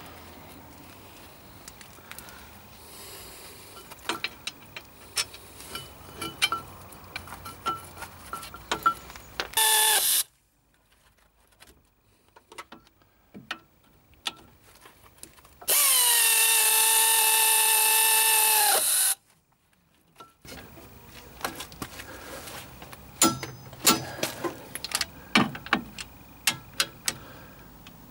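Power drill-driver running in the brake caliper support bolts: a brief burst about ten seconds in, then a steady run of about three seconds whose whine drops in pitch as it starts and again as it stops. Scattered metal clicks and clinks of tools and parts around it.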